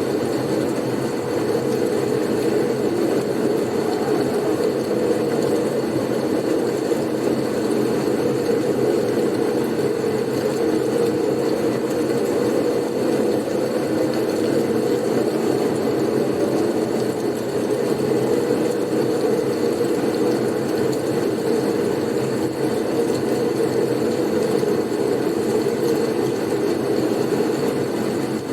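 Blizzard ambience: steady wind noise with no gusts or breaks, a constant rush that is heaviest in the low-middle range, with a faint high steady whine above it.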